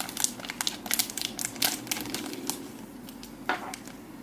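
Wrapping on a green bean cake crinkling as it is torn and pulled open by hand: a run of sharp crackles over the first two and a half seconds, then one more crackle about three and a half seconds in.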